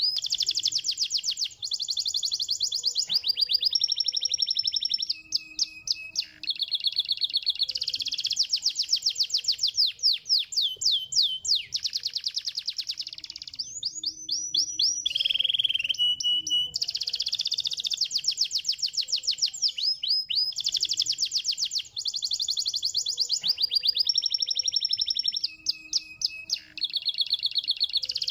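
Domestic canary singing a continuous song of fast trills and rolls, phrase after phrase with brief breaks between them, some phrases made of quick sweeping slurred notes.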